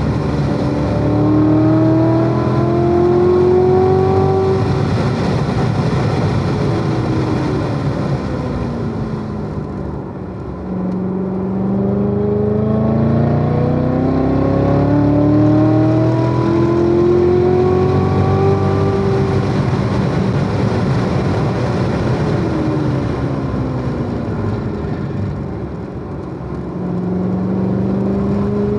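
Chevrolet Corvette C7 Z06's supercharged 6.2-litre V8 at full throttle on a race track: the pitch climbs for several seconds, then falls smoothly as the car slows. This happens twice, and the pitch starts climbing a third time near the end.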